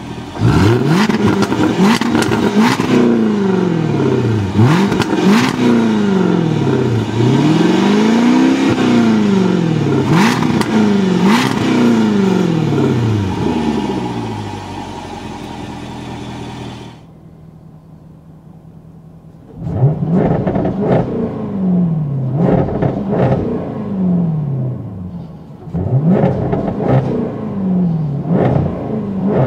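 2016 Jaguar F-Type R's supercharged V8 being revved in repeated blips through its dual-mode exhaust, the pitch climbing and falling with each rev. Partway through it settles to a steady idle for a couple of seconds, then the revving starts again.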